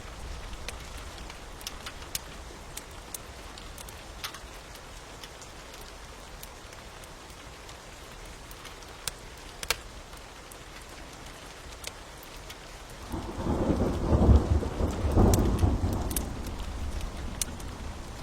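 Steady rain with scattered sharp crackles and pops of a wood fire; about thirteen seconds in, a roll of thunder rises, rumbles loudly for a few seconds and fades.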